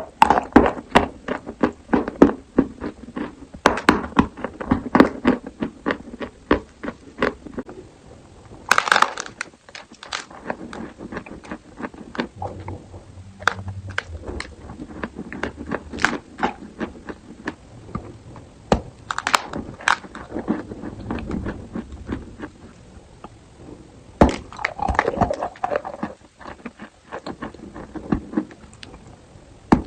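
Close-up crunching of chalk being bitten and chewed: clusters of sharp cracks and snaps with softer grinding between them.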